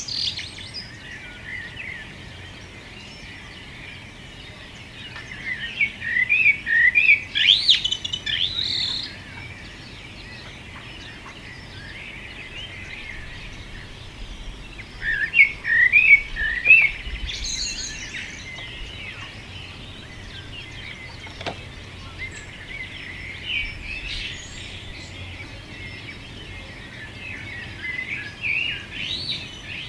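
Songbirds singing outdoors: bursts of quick chirping song phrases a few seconds long, coming roughly every eight to ten seconds, over a steady faint background chorus.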